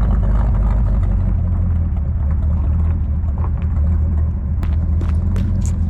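1959 Edsel Ranger's engine running steadily with a deep exhaust rumble, just after a replacement driver's-side exhaust manifold was fitted. A few light clicks near the end.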